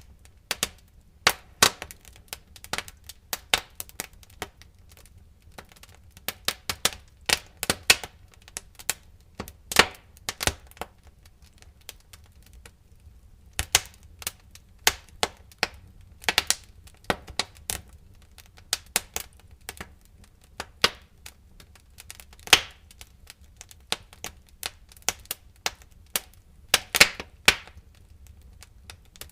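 Wood fire crackling in a fireplace: irregular sharp pops and snaps, several a second, with a short lull about halfway through, over a faint low rumble.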